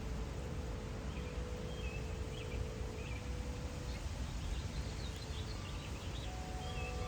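Garden birds chirping in short high calls over a steady low wind rumble, with the drawn-out ring of wind chimes; fresh chime tones sound near the end.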